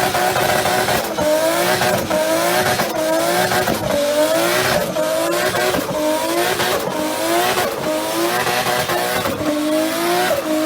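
Drift car doing a burnout: the engine is revved hard in quick repeated pulses, its pitch rising and dropping back about every second, over continuous tyre squeal.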